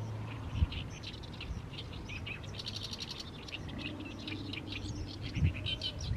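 Oriental reed warbler singing its chattering song of rapid, short repeated notes, busiest in the middle, with a couple of brief low thumps.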